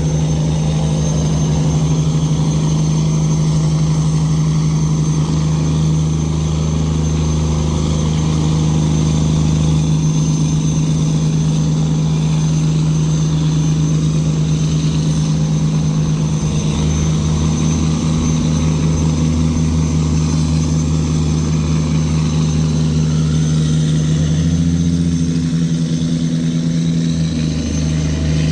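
Tugboat diesel engine running steadily under tow, its pitch stepping up slightly a couple of times.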